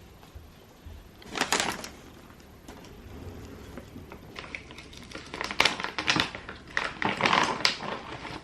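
Bursts of rapid clicking and rustling, once about a second and a half in and again from about five seconds until near the end.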